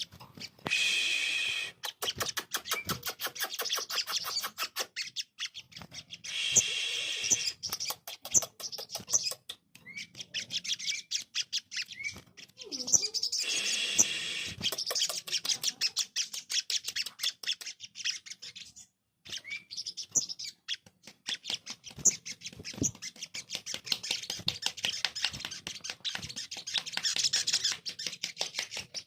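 Crimson sunbird (sogon) singing: long runs of rapid, high ticking notes mixed with high-pitched twittering phrases, broken by a few short pauses.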